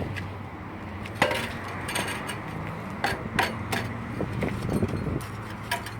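Scattered knocks and light metallic clinks from handling a cleaned metal stove chimney pipe, heard over a steady low outdoor hum.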